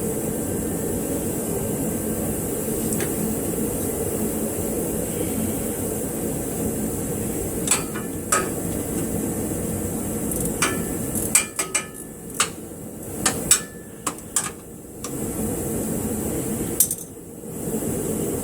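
Hand tools striking and clinking on metal suspension hardware: two sharp knocks, then a quick run of metallic taps and clinks, then one more near the end. A steady fan-like hum runs underneath.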